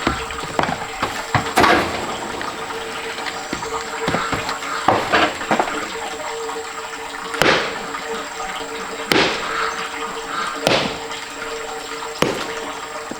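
Stream water running, with a sharp hit every second or two over the flow.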